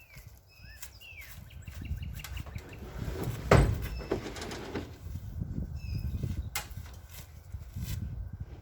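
Small birds chirping in short gliding calls, over a low rumble, with one sharp knock about three and a half seconds in.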